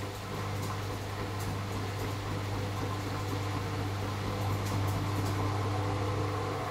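AEG Lavamat L88489FL washing machine running on its duvet programme, giving a steady low hum with a constant mechanical whir above it.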